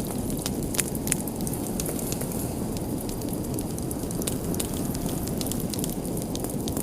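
Wood fire burning in a fireplace: a steady low rush of flames with frequent sharp crackles and pops, two louder pops about a second in.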